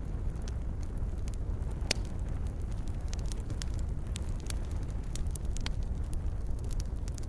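Wood campfire crackling, with irregular small pops and snaps over a low steady rumble; one sharper pop about two seconds in.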